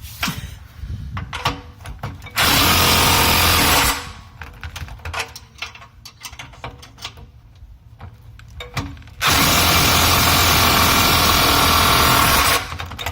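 A power tool runs in two steady bursts, a short one about two seconds in and a longer one of about three and a half seconds near the end, with clinks and knocks of metal parts and tools between them.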